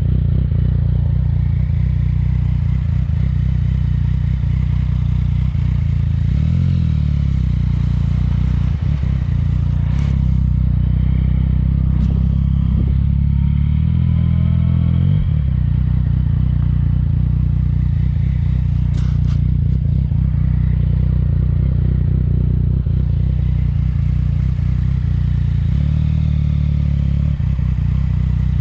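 Yamaha MT-09's inline-three engine breathing through a Yoshimura exhaust, running steadily with a deep note that shifts in pitch a few times. A few sharp clicks stand out.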